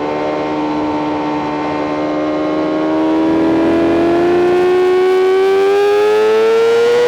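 BMW M 1000 RR's inline-four engine pulling hard under full throttle in one gear, its high-pitched howl climbing steadily in revs with wind rush over the microphone.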